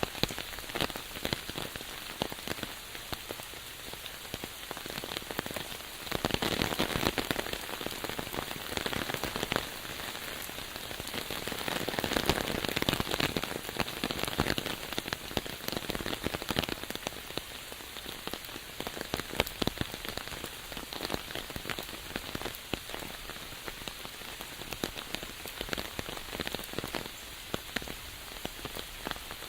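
Steady rain falling, with many separate drops hitting close by. It swells louder for a while a few seconds in and again near the middle.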